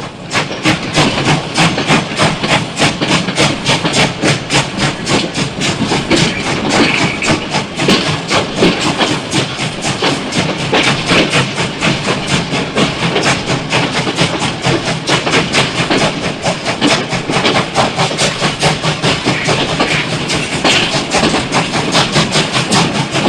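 Steam locomotive working hard: a steady, rapid run of exhaust beats, about four a second, with steam hiss between them.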